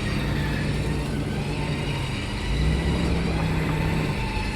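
A Jeep's engine running while its 12,000-pound winch hauls a box truck in on a single line under heavy load, with a steady mechanical whine. The pitch steps up and grows a little louder about two and a half seconds in.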